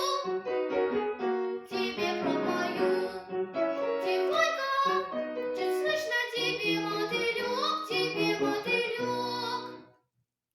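A girl singing solo with piano accompaniment, the closing phrases of the song; the sound fades away about ten seconds in.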